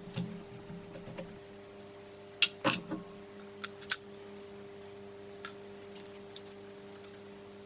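Metal clicks and clinks of hand tools and engine parts being handled during a Honda CB450 engine teardown, loudest in a quick cluster about two and a half seconds in, then a few single ticks further apart. A steady low hum runs underneath.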